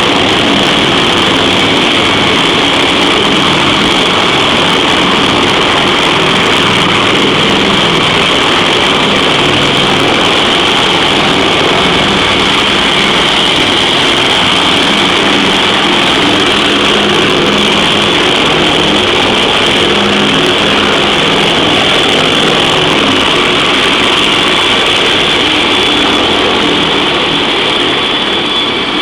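CH-53E Super Stallion heavy-lift helicopter running close by, its three turboshaft engines giving a loud, steady high whine over the rumble of the rotors.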